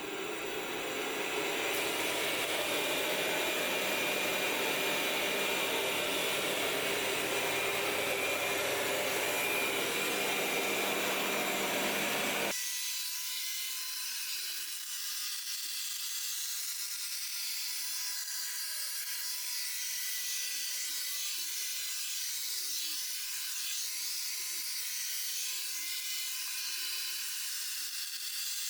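Roborock S7 robot vacuum-mop cleaning, its suction fan spinning up over the first couple of seconds and then running steadily. About twelve seconds in, the sound changes abruptly to a thinner steady whir without its low end.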